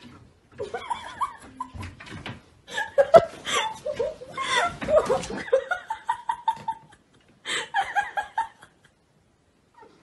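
Human laughter, in repeated bursts that stop and start again a few times and die away shortly before the end.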